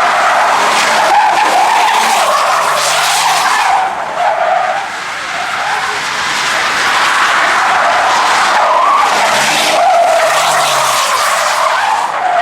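A car drifting: tyres screeching continuously with a wavering pitch, easing off briefly about four seconds in before picking up again, with the engine revving faintly underneath.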